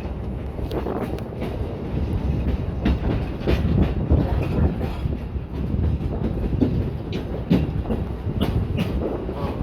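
Train hauled by the 031T steam locomotive No. 3714 running along the line: a steady rumble with irregular clacks of the wheels over rail joints.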